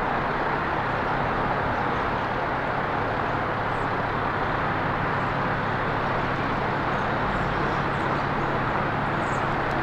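Steady traffic noise from a nearby road, a constant rushing hum, with a few faint high bird chirps scattered through it.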